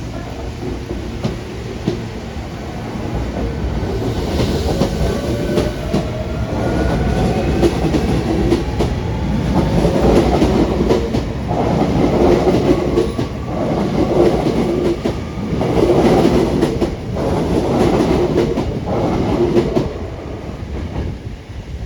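Electric subway train pulling out of the platform, its motor whine rising in pitch as it picks up speed, then a run of rhythmic wheel clatters as the cars pass, fading near the end.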